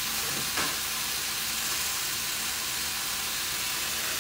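Steady sizzling hiss of food frying on a gas hob: sliced mushrooms browning in a frying pan beside a pot of quinoa. One light knock about half a second in.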